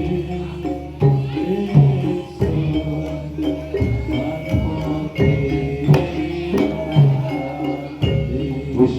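Live Javanese jaranan (ebeg) accompaniment music: an ensemble of pitched percussion over a drum beat, with low bass notes struck about once a second.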